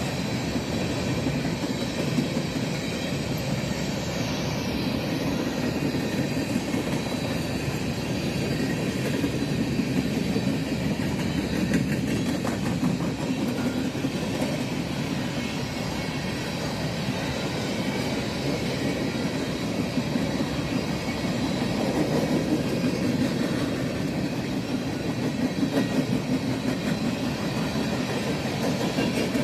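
Coal hopper cars of a Union Pacific freight train rolling steadily past: a continuous rumble of steel wheels on rail, with the wheels clicking over the rail joints.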